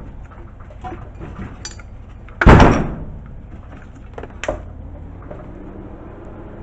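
A single loud bang about two and a half seconds in, with a short ring-off, then a lighter knock about two seconds later.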